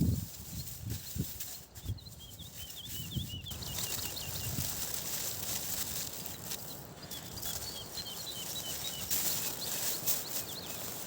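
Small songbird singing in runs of quick, short chirps over a steady outdoor hiss that grows louder a few seconds in, with a few low thuds in the first two seconds.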